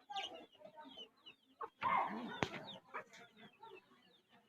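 Birds in a coop making many short, high chirps and squeaks, with one sharp click about halfway through.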